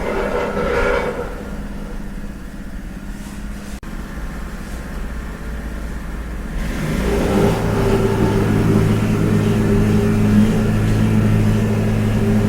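A steady, low-pitched motor hum. It drops away about a second in and comes back louder about seven seconds in.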